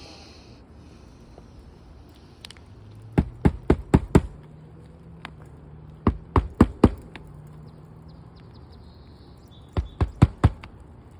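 Hammer driving and seating roofing nails in a replacement asphalt shingle: three quick runs of four or five sharp strikes each, a few seconds apart.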